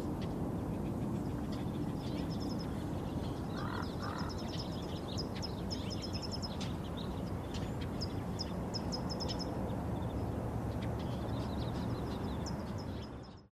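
Outdoor ambience: a steady low rumble with many short, repeated high chirping trills from small animals, fading out near the end.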